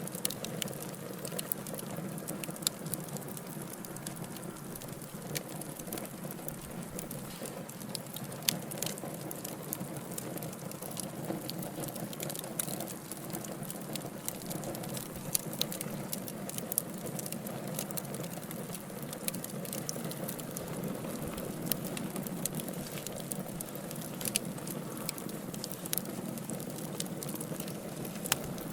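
Burning wood logs crackling: frequent irregular sharp pops and snaps over a steady low rush of flame.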